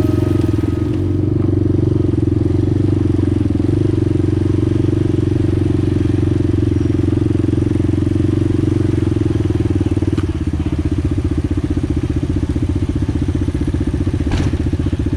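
Single-cylinder ATV engine running steadily under way, heard up close. About ten seconds in it settles to a slower, evenly pulsing beat as the revs drop.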